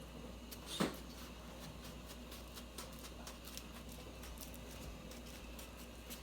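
Knife cutting a breadfruit: scattered small clicks and taps of the blade going through the fruit, with one short squeak that falls steeply in pitch about a second in.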